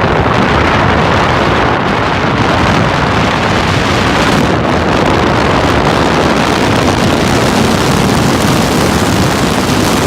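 Loud, steady rushing noise of wind buffeting the microphone, with a low rumble underneath; it drops away sharply just after the end.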